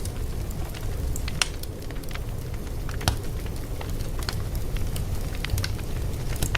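Fire crackling: irregular sharp pops and snaps, the strongest about one and a half and three seconds in, over a steady low rumble of the flames.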